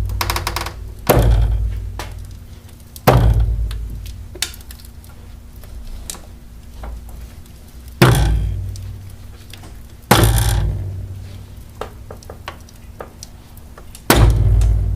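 Worn-out rubber shock absorber mounts on a car knocking: five heavy, loud thuds at uneven intervals, each dying away over a second or two. The knock is the sign of mounts whose rubber has cracked and broken through.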